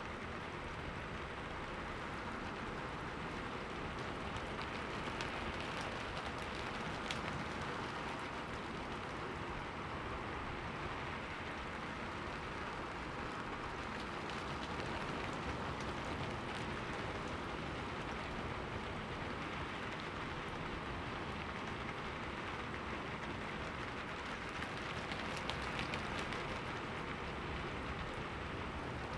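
Steady rain falling and pattering on a window pane, an even hiss with scattered small drop ticks.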